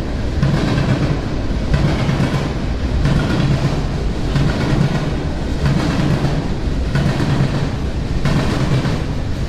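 Freight train rolling past, its wheels clicking over the rail joints in a steady rhythm about once a second.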